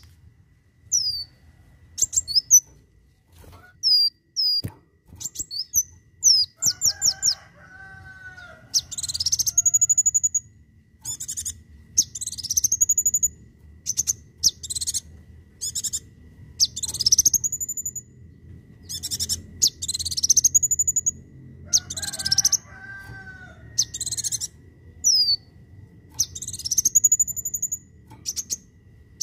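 Kolibri wulung sunbird singing: quick high, thin chips at first, then sharp rising sweeping whistles repeated about once a second. Twice a lower warbled phrase comes in, about a quarter and about three-quarters of the way through.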